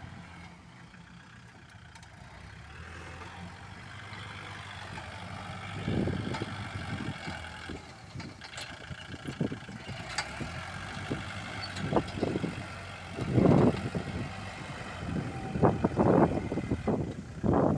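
Kubota L47 tractor-loader-backhoe's diesel engine running steadily, with irregular loud low thumps and knocks that grow busier in the second half.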